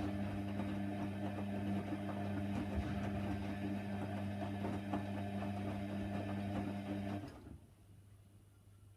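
Hoover Nextra HNWL 7146 washer dryer running with a steady motor hum and whir, then cutting off suddenly about seven seconds in.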